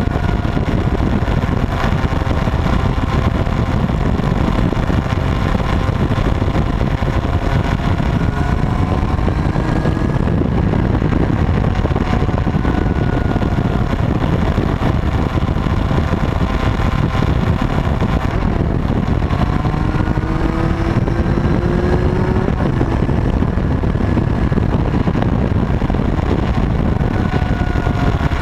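Motorcycle engine running steadily at road speed under a constant rush of wind and road noise, its pitch gliding slowly up and down with small changes of speed.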